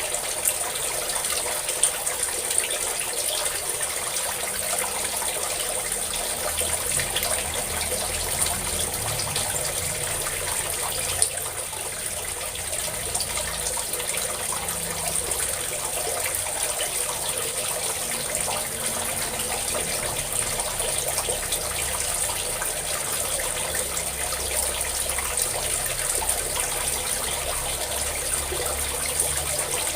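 A stream of water pouring and splashing steadily, with a few brief sharp clicks along the way.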